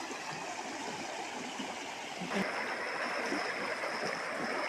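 Rushing river water, swollen with rainwater, flowing steadily; the rush grows louder and brighter about two seconds in.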